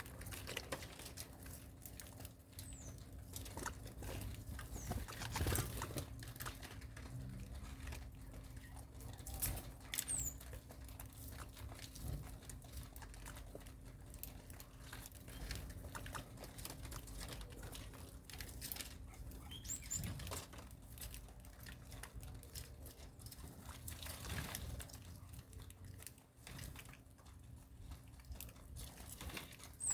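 Small birds moving about, with scattered light scratching, pecking and rustling, and a few brief, faint high chirps. A steady low hum runs underneath.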